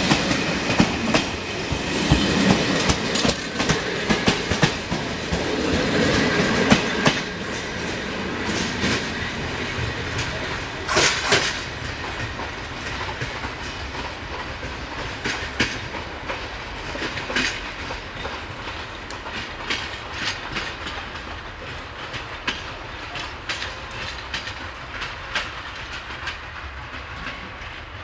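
Passenger train coaches rolling past at close range, their wheels clicking and clattering over the rail joints. The clatter is loudest at first and fades steadily as the train moves away.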